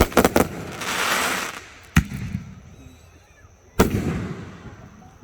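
Fireworks bursting overhead: a quick cluster of sharp bangs at the start, a single bang about two seconds in and another near four seconds, each trailing off in a rumbling echo.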